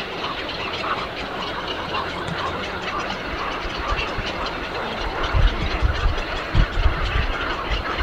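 Many small birds chirping over a steady hiss, with low rumbling thumps in the second half.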